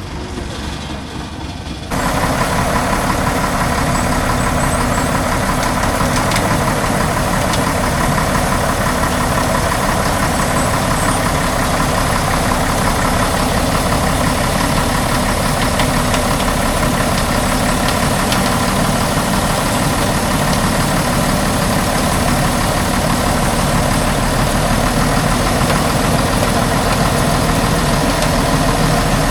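A heavy logging truck's engine runs steadily. It gets suddenly louder about two seconds in and then holds an even, unchanging note.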